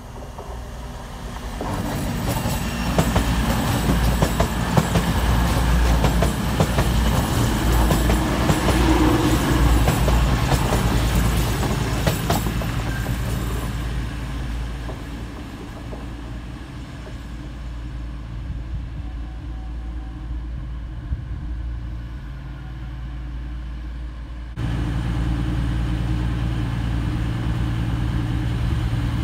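Class 222 Meridian diesel multiple unit passing at speed: a rush of wheel-on-rail noise with quick clicking and engine rumble that builds over the first couple of seconds and dies away slowly. Near the end a steadier low diesel rumble of a train at a station platform starts abruptly.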